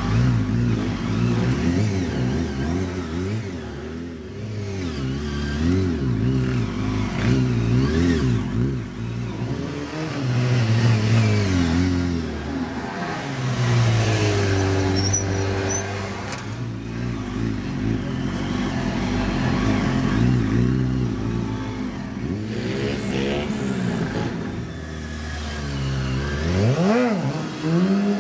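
Motorcycle engine revving up and down over and over, its pitch rising and falling constantly, with a sharp climb in revs near the end.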